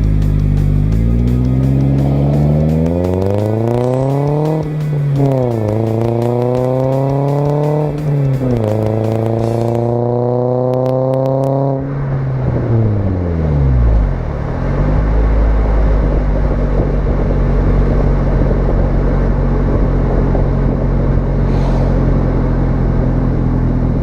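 2013 Toyota Corolla's four-cylinder engine through a Borla aftermarket exhaust, accelerating hard through the gears. The pitch climbs, drops at upshifts about five and eight seconds in, and climbs again. It then falls away as the throttle is lifted around twelve seconds in, and settles into a steady low drone.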